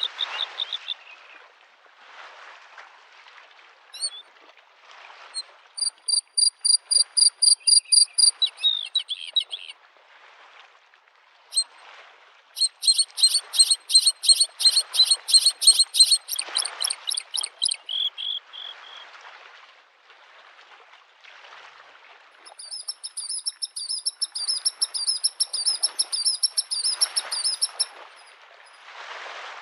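Bluethroat singing three long phrases of rapid, ringing repeated notes, over small lake waves washing softly onto the shore in swells that come and go.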